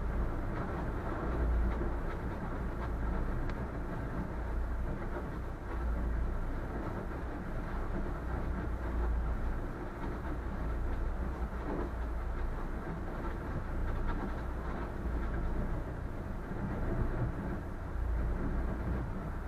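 Boat hull pushing through ice: a continuous low rumble with rough, irregular grinding and crackling.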